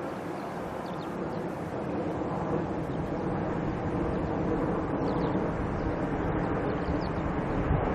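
Jet aircraft engine noise: a steady rushing sound that slowly grows louder.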